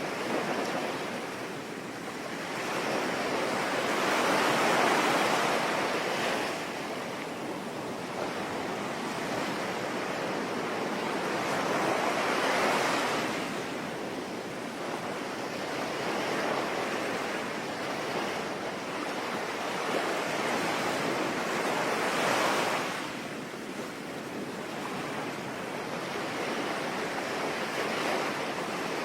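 Ocean waves breaking on a shore, surging in three times, over a steady hiss of rain.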